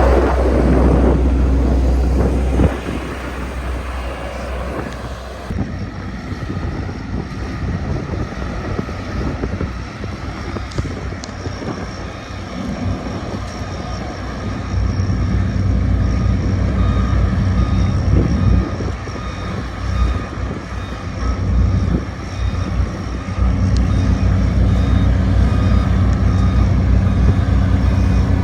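Sakai road roller's diesel engine running steadily with a heavy low drone, louder at the start and again in the second half. A reversing alarm beeps in short repeated tones toward the end.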